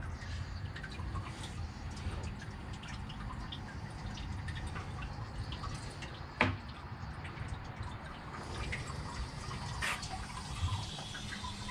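Water dripping, with scattered small ticks and a sharp knock about six seconds in and another near ten seconds.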